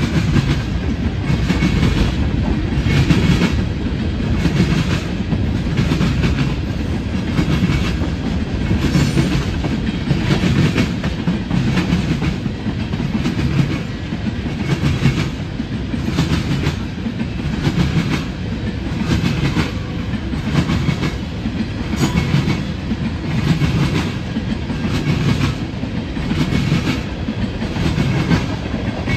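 Freight train of tank cars rolling past close by, a steady rumble with the wheels clacking in an even, repeating rhythm on the rails.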